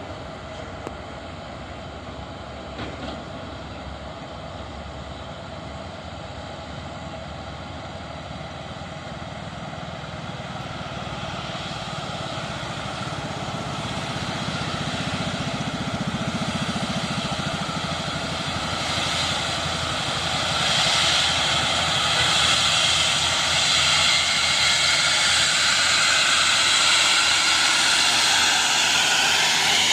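Heavy truck engine running, growing steadily louder through the first two-thirds as it draws near, then holding loud.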